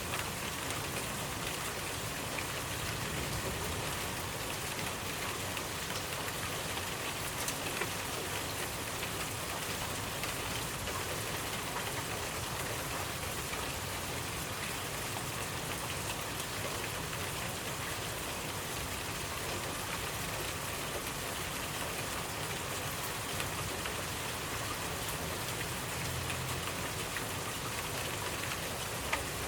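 Steady rainfall pattering on surfaces, an even hiss with scattered individual drop hits.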